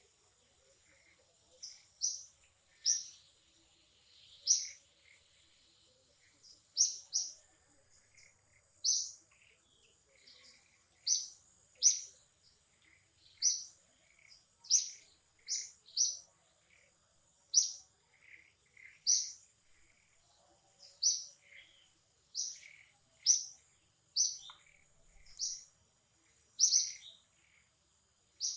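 A bird chirping: short, high-pitched chirps repeating about once a second, each with a fainter lower note.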